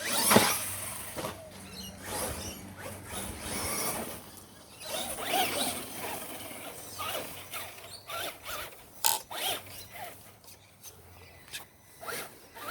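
Radio-controlled car driving, its electric motor whining in uneven bursts as the throttle is worked, with a loud hit just after the start and a few sharp clicks and rattles later.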